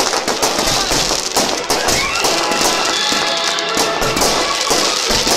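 Music playing loudly alongside a fireworks display, with firework bangs and crackles throughout.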